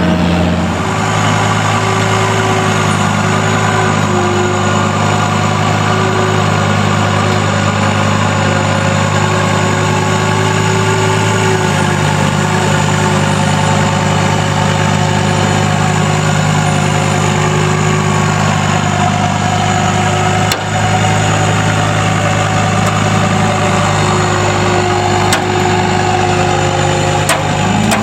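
A vehicle engine running steadily at a constant speed, with no revving.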